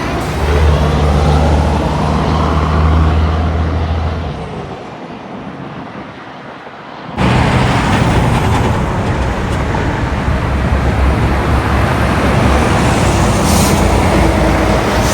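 Diesel semi-trucks driving past on the road amid traffic noise: a truck's engine hum fades away as it passes. About seven seconds in, an abrupt cut brings in the louder engine and tyre noise of the next truck going by.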